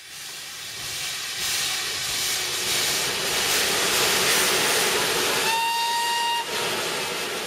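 A Colas Class 37 diesel locomotive on a Network Rail test train running through with a loud, steady rush of noise. About five and a half seconds in, it gives one steady horn blast lasting about a second.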